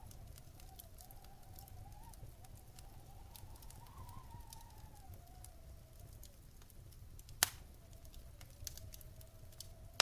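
Wood fire crackling in a fireplace: scattered small crackles and one sharp, loud pop about seven seconds in, over a steady low rumble of the flames. A faint tone wavers up and down in pitch throughout, highest about four seconds in.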